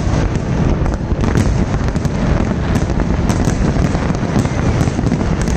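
Fireworks display going off: a dense, irregular stream of bangs and crackling pops over a continuous rumble.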